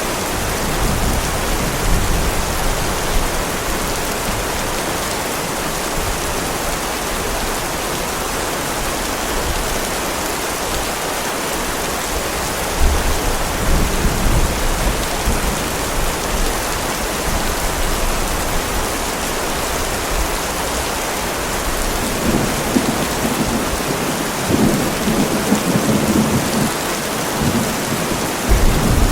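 Heavy rain falling steadily, with rumbles of thunder rolling in low underneath, near the start, about 13 seconds in, and again from about 22 to 27 seconds.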